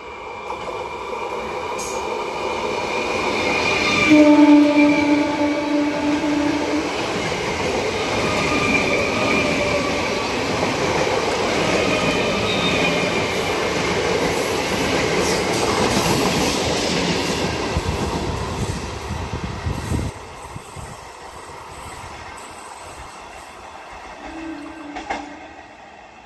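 BEML stainless steel EMU local train approaching and sounding one long horn blast about four seconds in. It then passes close by with loud rail and wheel noise and a whine over it. About 20 s in the sound drops suddenly to quieter track-side noise, and a short horn blast from a distant train comes near the end.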